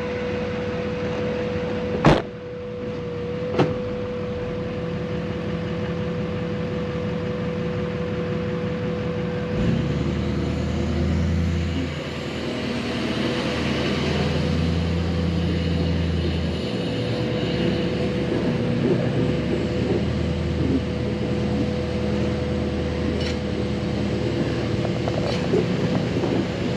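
Dually pickup truck's engine running as it pulls off towing a fifth-wheel car hauler trailer on a test drive. There is a sharp knock about two seconds in, and a lighter one soon after. From about ten seconds in the engine note grows louder and deeper, then eases off near seventeen seconds.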